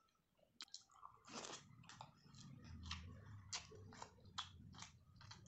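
A person chewing and biting food, mouth clicks and crunches coming two or three times a second after about a second of quiet.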